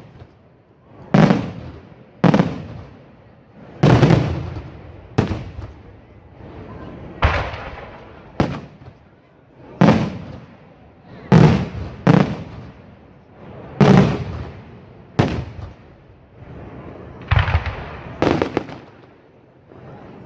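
Aerial firework shells bursting one after another, about thirteen sharp bangs spaced a second or so apart. Each bang has an echoing tail that fades over about a second.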